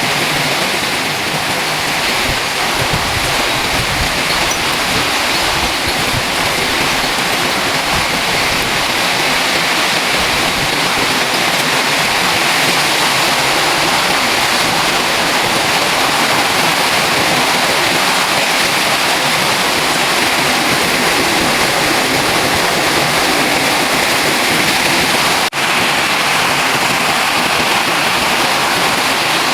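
Heavy rain pouring down in a steady, dense downpour from a strong rainstorm. The sound cuts out for an instant once, about 25 seconds in.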